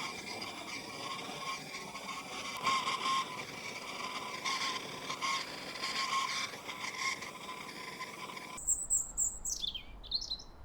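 A steady hiss with a faint wavering whine for about eight and a half seconds, then an abrupt switch to small birds chirping and whistling in quick, high calls.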